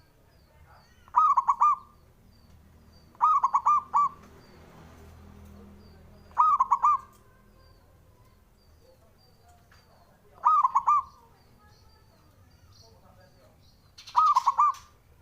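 Male zebra dove (perkutut) singing its cooing song: five short calls, each a quick run of three or four rolling coos, spaced a few seconds apart. A faint fast ticking runs underneath.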